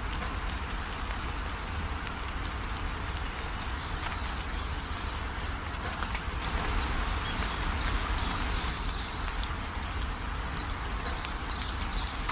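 Steady rain falling, with small drop clicks and birds chirping: a run of short, high, repeated chirps, busier in the second half.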